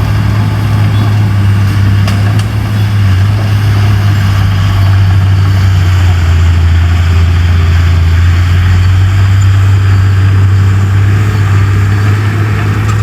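Large bulldozer's diesel engine running steadily, a loud, deep, unchanging drone.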